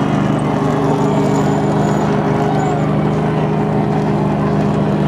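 A vehicle engine idling steadily, loud and close, holding one low even pitch.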